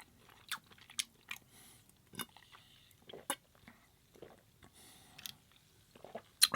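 Close-miked chewing of food: short wet mouth clicks and smacks at irregular intervals.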